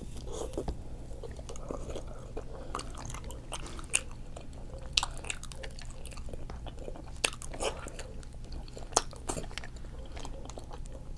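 Close-miked chewing of octopus, with scattered sharp wet mouth clicks and smacks.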